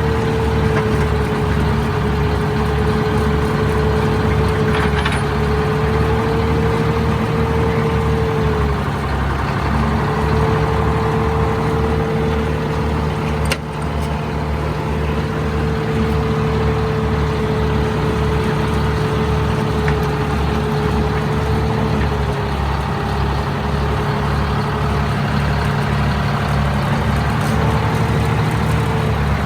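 An engine running steadily, with a low regular pulse about one and a half times a second and a wavering mid-pitched hum.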